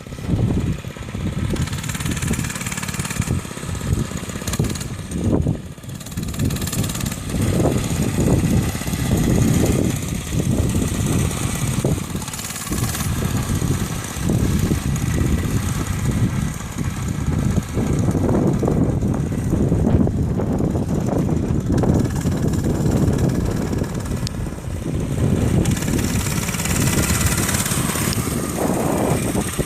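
Motorcycle engine running under way, its low rumble swelling and easing with the throttle, with a rushing hiss that grows stronger near the end.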